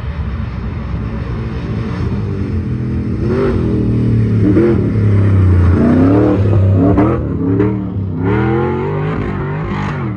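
Four-wheel-drive engine revving in repeated bursts as the vehicle drives past on a dirt track, its pitch rising and falling several times, loudest as it passes close about six seconds in.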